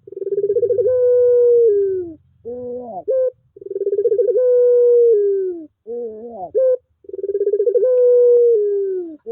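Puter pelung dove cooing: three long drawn-out coos, each opening with a fast ripple and sliding down at the end. Short rising notes sit between the coos.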